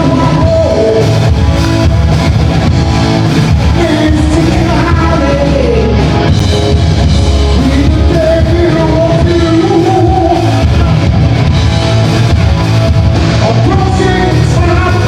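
Loud rock music with a lead vocalist singing over the band.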